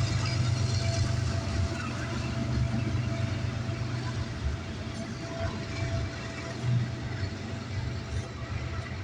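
CN freight train rolling past with a steady low rumble and a faint steady tone above it, slowly fading as it moves on.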